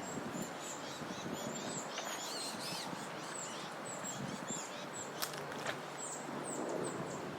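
Birds chirping: a quick series of short, high chirps repeating over steady outdoor background noise, with two sharp clicks a little past halfway.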